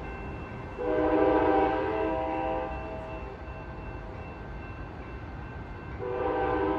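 Amtrak Capitol Corridor train's horn sounding a chord in two long blasts as the train pulls away. The first lasts about two seconds, starting about a second in. The second begins near the end, with low train rumble underneath.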